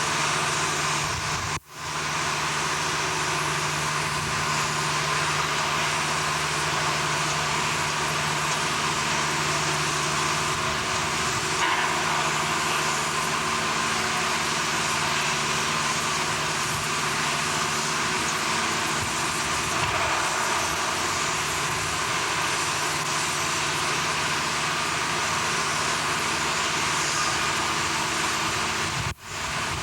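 Heavy machinery running steadily, a loud, even mechanical noise with a low hum that stops about ten seconds in. The sound cuts out briefly twice, once just under two seconds in and once near the end.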